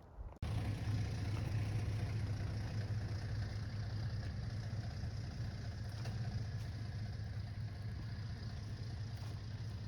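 A motor vehicle's engine running steadily with a low hum and road or cabin noise, starting abruptly about half a second in.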